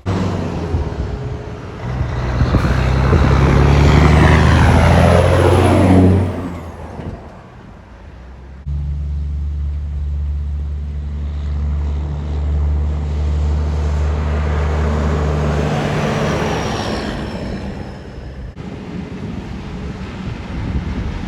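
Heavy trucks driving past one after another, the engine drone and tyre noise swelling and then dropping in pitch as each goes by: once a few seconds in and again past the middle.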